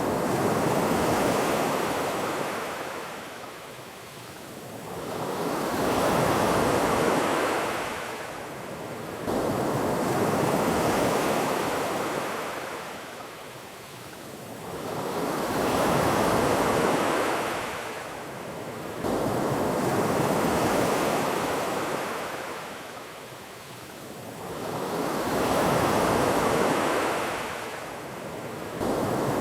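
Ocean waves washing onto a beach, swelling and ebbing in a slow rhythm every few seconds.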